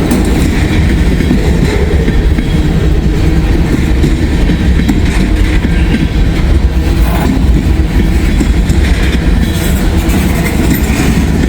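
Freight train of empty trash cars rolling past close by, a loud steady rumble of steel wheels on the rails.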